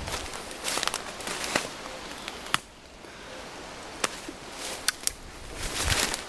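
Footsteps crunching over dry twigs and branch debris on the forest floor, with irregular sharp snaps of breaking sticks.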